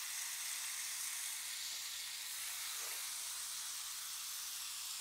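Marinated paneer cubes sizzling steadily in melted butter on a hot grill pan.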